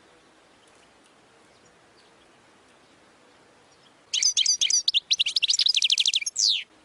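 European goldfinch singing: after about four seconds of faint hiss, a short phrase of bright, quick chirps runs into a fast trill of roughly ten notes a second and ends on one long falling note.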